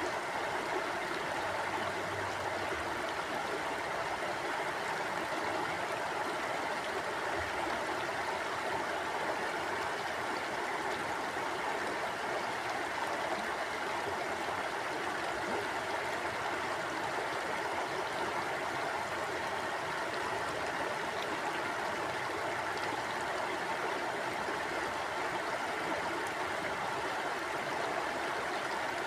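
Small river or stream flowing steadily, a continuous rush of water without breaks or changes.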